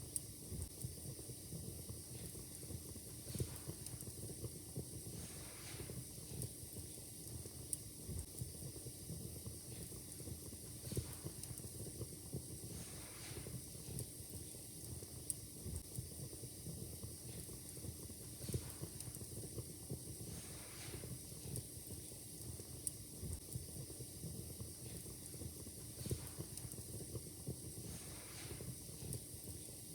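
Fire crackling in a fireplace: a dense run of small crackles with sharper pops scattered through it, and short hisses every few seconds.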